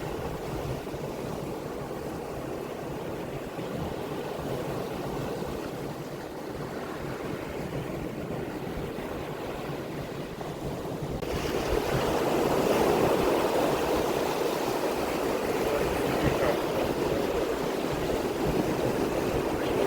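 Steady rushing of sea waves and wind on the microphone. It turns suddenly louder and brighter about eleven seconds in.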